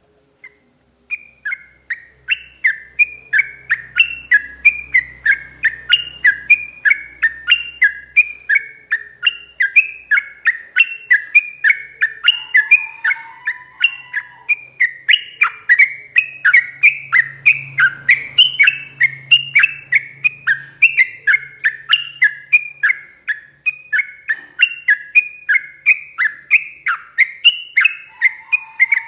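Yellow-vented bulbul (trucuk) singing a long unbroken run of loud, repeated falling chattering notes, two to three a second, beginning about a second in.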